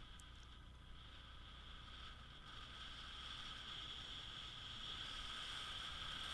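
Faint, steady riding noise from a Honda SH150i scooter under way: the single-cylinder engine's low hum with a steady higher whine and wind, slowly growing louder as it picks up speed.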